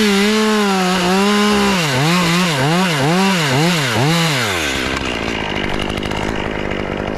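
Two-stroke chainsaw running at full throttle through a cut, its pitch dipping and recovering about twice a second as it bogs under load. About two-thirds of the way through it drops back toward idle.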